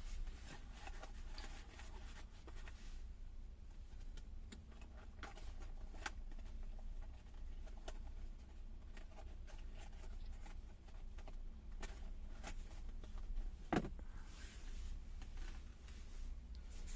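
Truck engine idling: a low, steady rumble, with scattered small clicks and one sharper knock about 14 seconds in.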